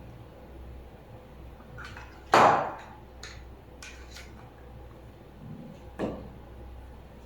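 Hard objects being handled and set down: one sharp knock with a short ring about two seconds in, the loudest sound, then a few light clicks and a second, softer knock about six seconds in.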